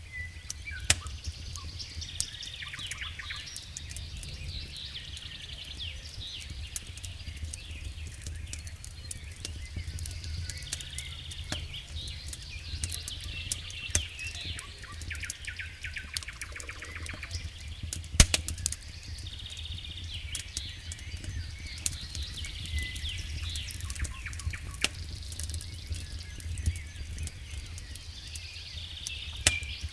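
Wild birds chirping and singing over the sharp, irregular crackles and pops of a wood campfire, with one loud pop about 18 seconds in, over a steady low rumble.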